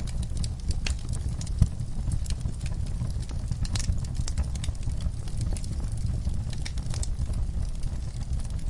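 Wood fire crackling: frequent sharp pops and snaps over a steady low rumble, with one louder pop about one and a half seconds in.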